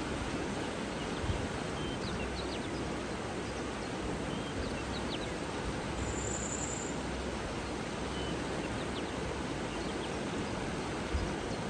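Steady rush of running water with faint, scattered bird chirps over it, and a brief high trill about six seconds in.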